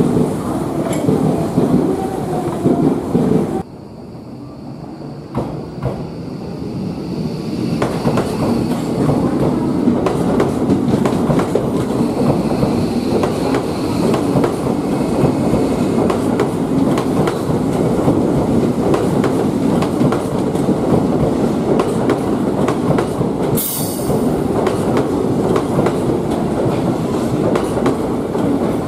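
Electric commuter train rolling slowly over the turnout points close by, with a steady running rumble and repeated clacks as its wheels cross the switch rails and joints. It builds up over the first few seconds after a sudden cut, and there is a brief high-pitched squeal about three quarters of the way through.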